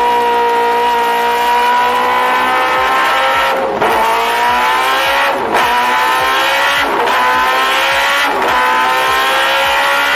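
Sport motorcycle engine through a loud exhaust, accelerating hard: the pitch climbs, then dips briefly four times as it shifts up through the gears.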